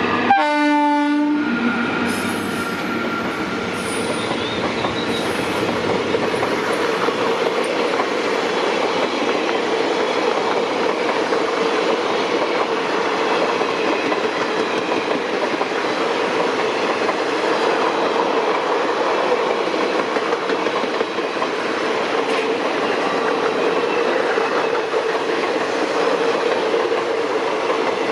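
An Indian Railways WAP-1 electric locomotive sounds one horn blast of about a second near the start. Its passenger train then runs past with a steady rolling rumble of wheels on rails.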